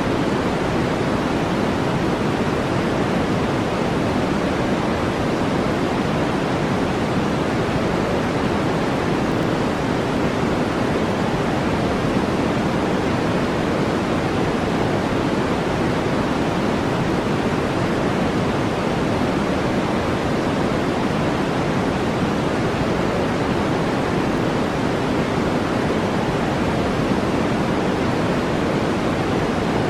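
Steady brown noise: an even, unbroken rushing hiss weighted toward the low end.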